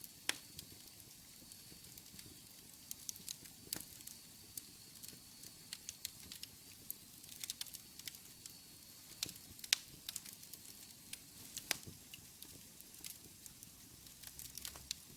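Wood fire burning in a fireplace: irregular sharp crackles and pops over a low steady hiss.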